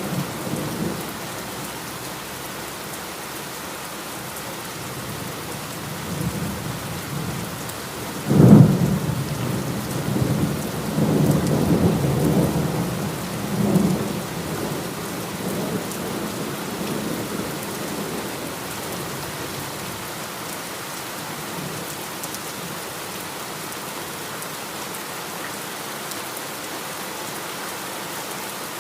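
Heavy steady rain with a thunderclap about eight seconds in that rolls on in low rumbles for several seconds before fading, leaving the rain alone.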